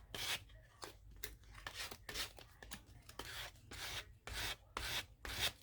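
Paper cut-outs being rubbed and handled for a collage: a quick run of short, scratchy strokes, about two or three a second.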